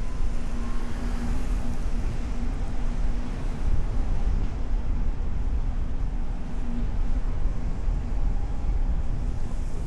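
Steady low rumble of a car driving on city streets, heard through a hood-mounted camera: road and engine noise with wind on the microphone.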